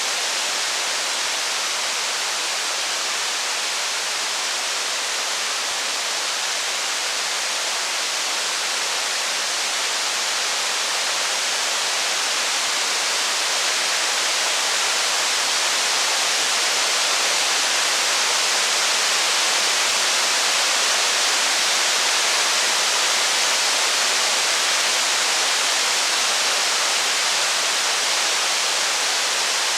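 Rain falling in a steady, even hiss that swells slightly in the middle.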